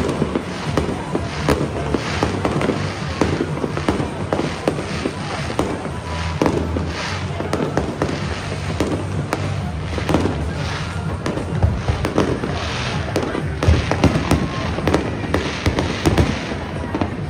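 Fireworks display: aerial shells bursting in a continuous run of bangs and crackles, with no pauses.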